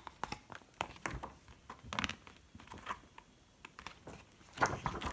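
Pages of a cardboard picture book being handled and turned: faint scattered rustles and taps, louder near the end.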